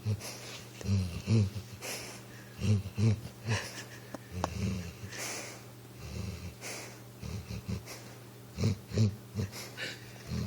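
Sleeping pitbull snoring and wheezing through its nose, in short snores that come two or three at a time every second or two.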